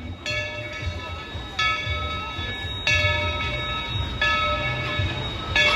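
Steam locomotive's bell ringing, five even strokes about a second and a quarter apart, each ringing on into the next, over the low rumble of the approaching train.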